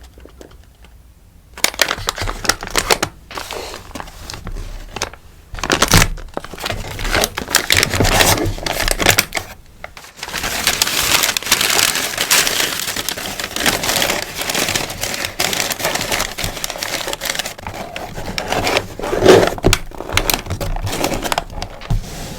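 Rustling and crinkling of packaging as sticker orders are packed by hand, with irregular handling noises. It starts after a short quiet pause and is busiest in the middle.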